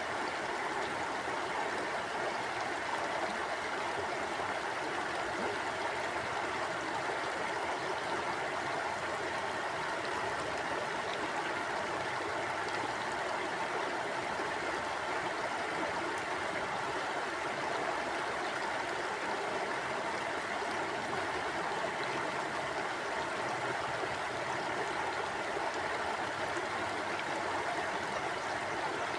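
River water flowing steadily over stones, an even rushing and babbling with no breaks.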